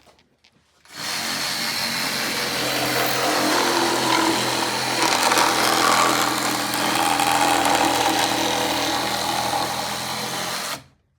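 Reciprocating saw (Sawzall) running steadily while cutting into foam, starting about a second in and cutting off abruptly just before the end, with a high steady whine over the motor hum.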